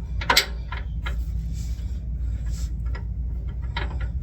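A few short metallic clicks and knocks from hand tools working the bolts under the car, one sharp click just after the start and a small cluster near the end, over a steady low hum.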